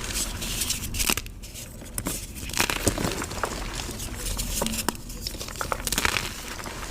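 Chalk crunching and crumbling in a series of irregular crackly snaps and gritty crunches.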